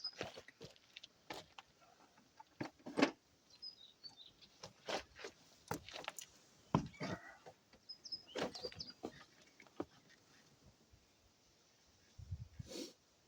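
Irregular clicks, taps and light knocks of hand work on a truck's instrument cluster: tools and plastic parts being handled, with a few faint short squeaks and a low rumble near the end.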